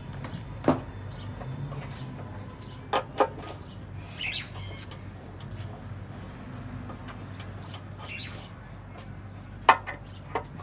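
A few short, sharp clicks or knocks, two of them close together, over a steady low hum, with brief high bird chirps in between.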